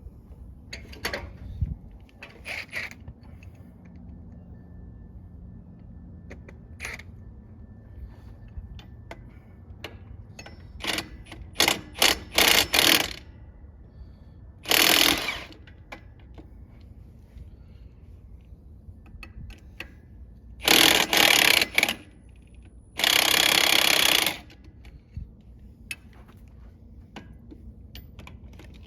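Air impact wrench run in several short bursts, loosening wheel and hub fasteners on a truck chassis, with a few light clicks and clanks of tools between.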